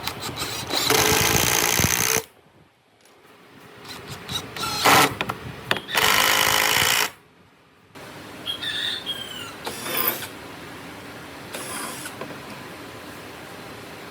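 A power tool running in two loud bursts of about a second or more each, cutting off abruptly, with fainter high squeaks in the second half.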